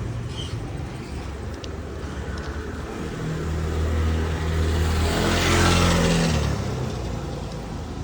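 A car driving past, growing louder to a peak about five to six seconds in and then fading, over a steady low rumble.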